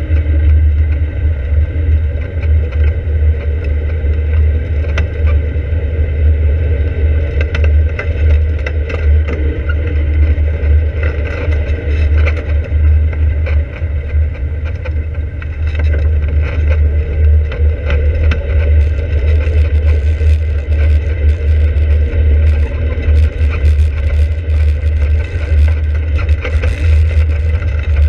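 Open-cockpit sports car's engine running steadily at low speed, heard from a camera mounted on the car, over a heavy continuous low rumble with small rattles.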